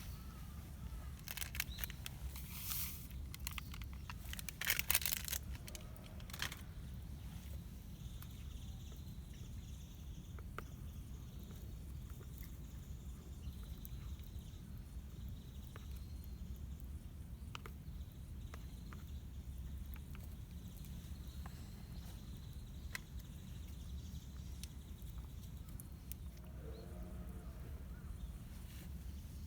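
Quiet campsite sounds: a few bursts of rustling or handling noise in the first six seconds, then scattered faint clicks over a steady low rumble, and a short bird call near the end.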